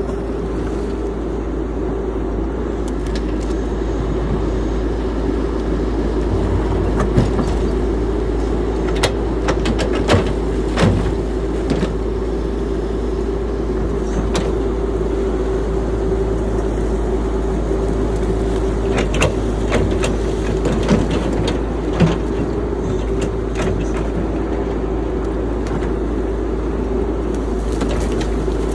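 CAT 312 excavator's diesel engine running steadily under work, with a constant droning tone and scattered knocks and clanks in the middle of the stretch.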